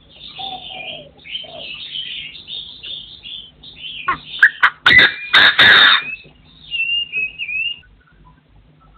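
Partridges calling: a run of rapid chirping calls, loudest and harshest from about four to six seconds in, then a short warbling whistle.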